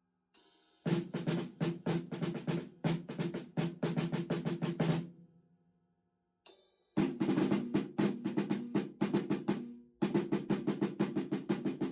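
Improvised drum kit playing quick snare fills and rolls with bass drum. It comes in runs of rapid hits, broken by a pause of about a second and a half in the middle.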